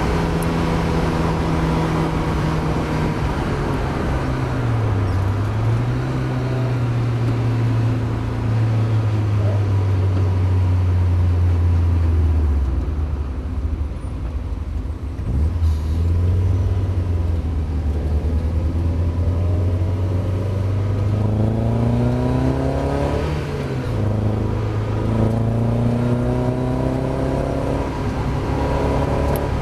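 Mazda MX-5 race car's four-cylinder engine running hard on track, its pitch climbing and dropping with gear changes and lifts. The note falls away for a spell in the middle, then climbs steeply and drops sharply near the end as it shifts up again.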